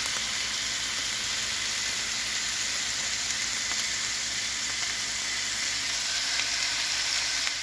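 Corn kernels and ground beef frying on a hot steel flat-top griddle, a steady even sizzle.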